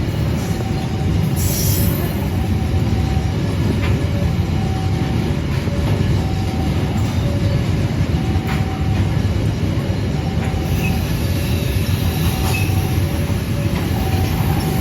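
Train cars rolling past on the rails with a loud, steady rumble of wheels on track. Short steady tones come and go about once a second over the rumble.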